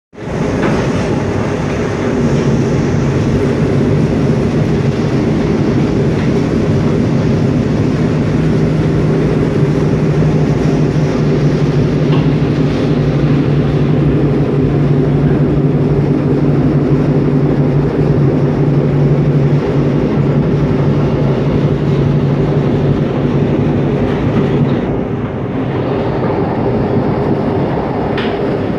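Mugunghwa-ho passenger train running at speed, heard from inside the carriage: a steady rumble of wheels on track with a low hum, which drops away about 25 seconds in.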